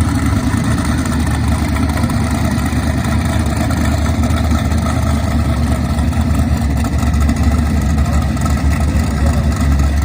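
Loud drag car engine running steadily at low revs, with a deep, even rumble and no revving.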